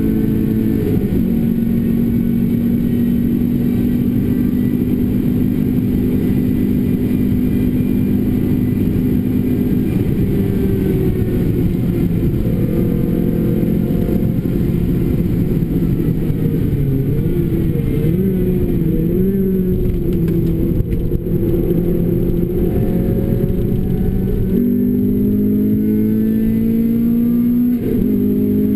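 Renault Clio RS engine through a Bastuck aftermarket exhaust, driven hard on track: it holds steady revs for long stretches, its pitch wavers and dips through the middle, then it revs up strongly about three quarters of the way in with a gear change near the end. A steady rumble of tyre and road noise runs beneath it.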